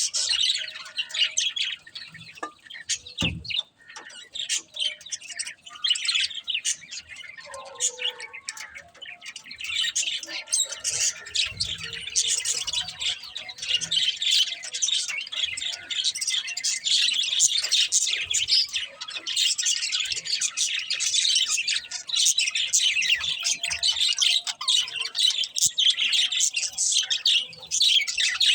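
Budgies chirping and warbling without pause, a busy stream of rapid high chirps with the odd squawk, fuller and louder from about ten seconds in.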